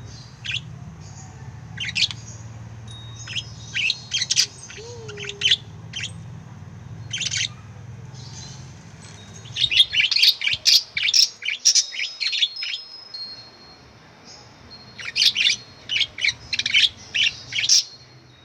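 Pet lovebirds chirping: short, sharp, high chirps, scattered at first, then in quick runs about ten seconds in and again near the end.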